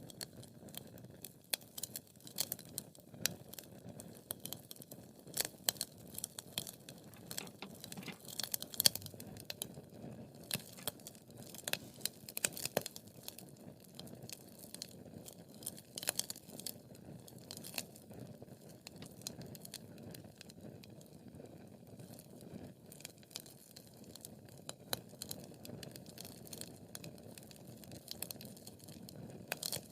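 Wood fire crackling in a fireplace: irregular sharp pops and snaps over a soft, steady low rustle of burning logs, the loudest pop about nine seconds in.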